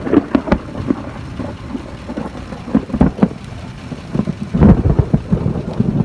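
Thunder from a close lightning strike: crackles and low rumbling that surge again about three and five seconds in, with rain falling throughout.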